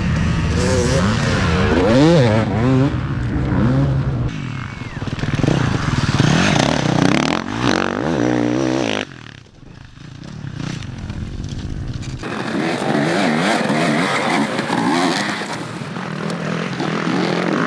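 Dirt bike engines revving up and down, their pitch rising and falling, with some scraping and clatter. The sound drops off suddenly about nine seconds in, then the revving picks up again.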